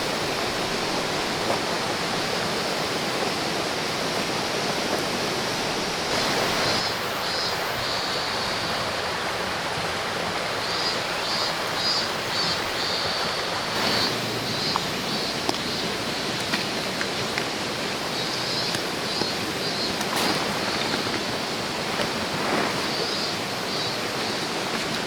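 A clear river flowing over rocks, a steady rush of water. Now and then there are short bursts of high, rapid chirping.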